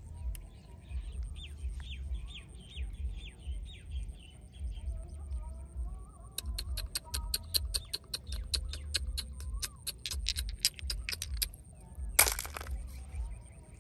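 Bird calling: a run of short, falling chirps, then a fast series of sharp clicks that slows and fades. A steady low rumble runs underneath, and a sudden splash comes near the end.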